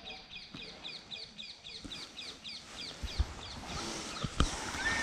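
A bird calling a fast run of short, high chirps, about four or five a second, that fades out a little past the middle; a couple of dull knocks follow near the end.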